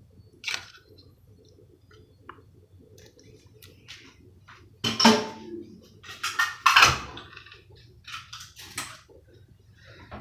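Dishes and cat food bowls clinking and rattling as cat food is handled, with scattered small clicks and two louder noisy bursts, about five seconds in and again around seven seconds in.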